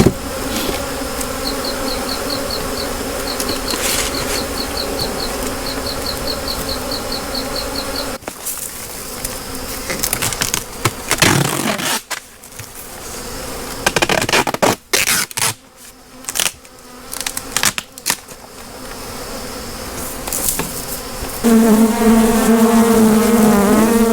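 Honeybees buzzing close around the microphone while nucs are handled, a steady pitched hum. Midway it gives way to uneven rustling and knocks. From about three seconds before the end the buzz comes back much louder.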